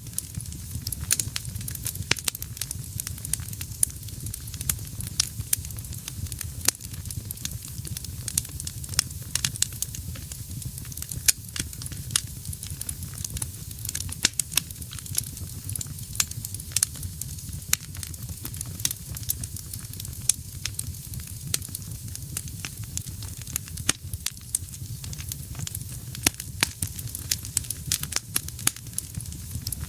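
Wood fire burning in a fireplace, with frequent irregular sharp crackles and pops over a low steady rumble of the flames.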